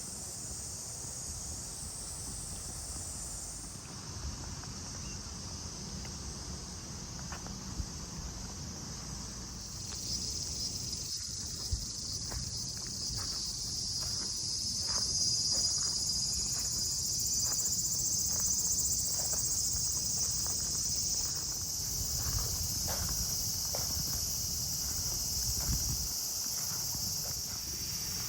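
Chorus of insects, a steady high-pitched buzzing that grows louder about ten seconds in, with a low rumble beneath and faint scattered ticks.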